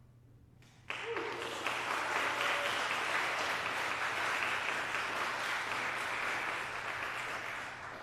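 Congregation applauding, starting suddenly about a second in after the organ's last chord has died away, and fading near the end.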